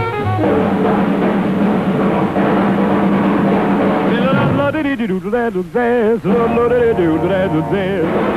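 Swing jazz band music with brass and drums; about halfway through, a singer's voice with heavy vibrato comes in over the band.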